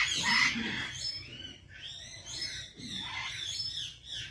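Parrots making harsh, raspy squawking calls, loudest in the first half-second and then quieter and repeated.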